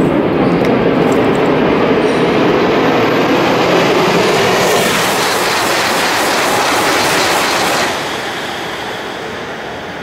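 E5 series Shinkansen train passing close by at high speed: a loud, steady rush of wheel and air noise, with a sharper hiss in the second half of the pass. It fades after about eight seconds as the train goes by.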